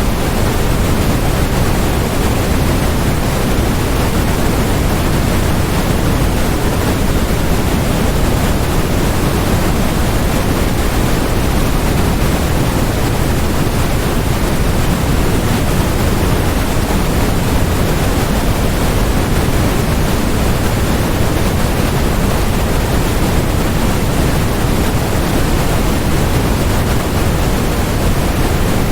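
Steady generated masking noise: an even, unchanging hiss, heavier in the low end than in the highs, so closer to pink noise than to flat white noise.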